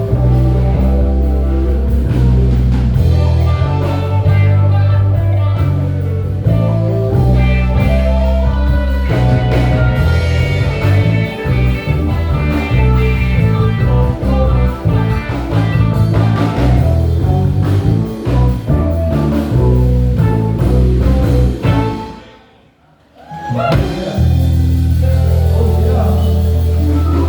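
Live band of bass, drums and keyboards with a lead guitar, playing a bluesy groove with a heavy bass line. About three-quarters of the way through the band stops dead for roughly a second, then comes back in on a long, heavy bass note.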